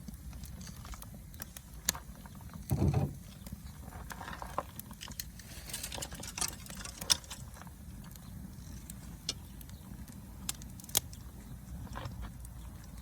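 Wood fire crackling, with scattered sharp pops and snaps and a short, louder dull thud about three seconds in.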